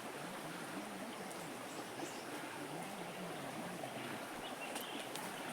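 Shallow stream water flowing steadily over the trail.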